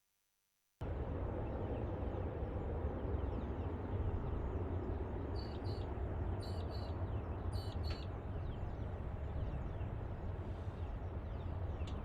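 Outdoor ambience that cuts in abruptly just under a second in: a steady low rumble with hiss, with a bird calling in short chirps three times in the middle.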